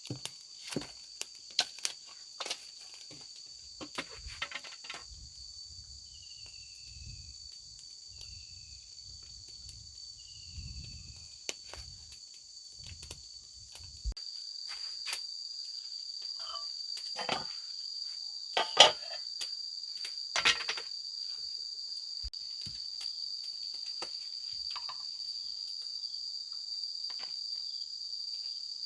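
A steady, high-pitched insect chorus of crickets or cicadas, louder in its second half. It is broken by scattered sharp clicks and knocks, the loudest about two-thirds of the way in.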